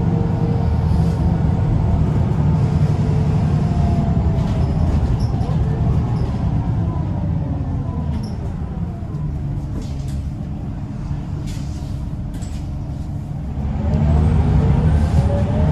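Scania L94UB bus's diesel engine. It runs hard and drops in revs as the bus slows, with a few short hisses and rattles during a quieter stretch. Near the end it revs up hard again as the bus pulls away.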